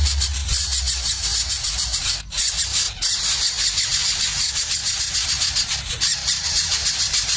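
Baby birds' shrill begging calls: a loud, rapid, pulsing chatter of about eight to ten pulses a second, breaking off briefly a few times.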